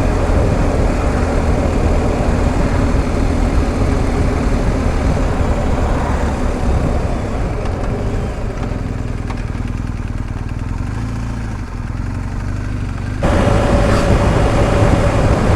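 BMW R1250 GS Adventure's boxer-twin engine running on the move, with wind and road noise over the microphone. It eases off a little through the middle, and the sound jumps back louder all at once near the end.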